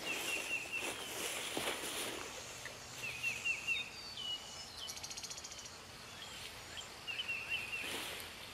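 Songbirds singing: three short runs of quick repeated whistled notes, with a higher whistle and a fast trill between them, plus a couple of faint rustles in the grass.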